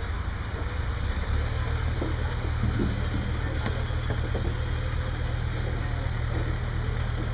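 A vehicle engine idling steadily with a low hum, with a few faint knocks about two to four seconds in.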